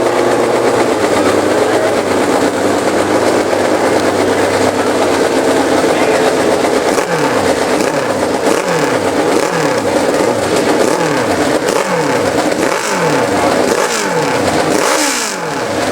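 A hill-climb motorcycle's engine running hard at a steady pitch. About seven seconds in it starts being revved over and over, the pitch dropping after each burst, roughly once a second.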